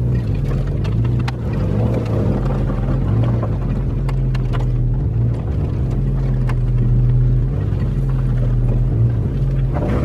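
Skid steer's engine running steadily at working revs while towing a truck, with a few faint clicks and knocks.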